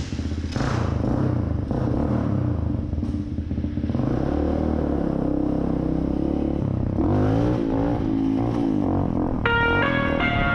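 125cc Coolster dirt bike's single-cylinder engine running under way, its pitch climbing and dropping several times as it is revved and shifted through the gears. Music comes in near the end.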